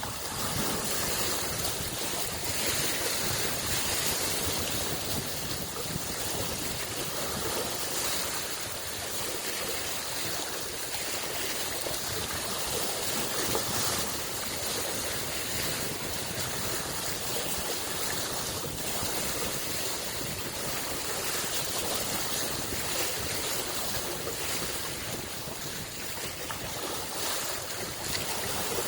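Small lake waves lapping steadily on the shore, a constant wash of water with gentle swells in level.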